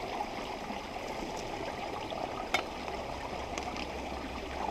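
Spring-fed creek running over rocks: a steady wash of flowing water, with one faint click about halfway through.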